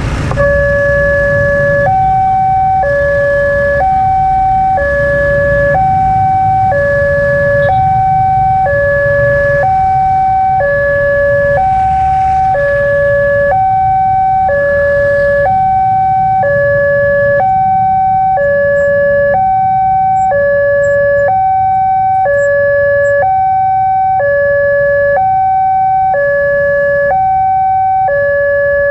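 Railway level-crossing warning alarm sounding its electronic two-tone signal, a lower and a higher note alternating about once a second, warning of an approaching train as the barrier comes down. A low rumble of idling traffic runs underneath.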